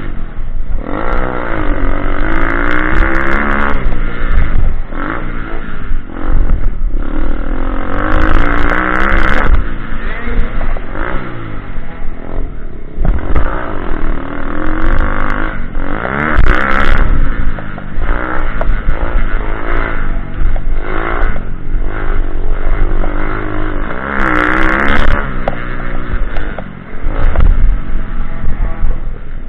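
Pit bike engine revving up and down again and again, its pitch rising and falling every couple of seconds as the throttle is opened and shut around an off-road track.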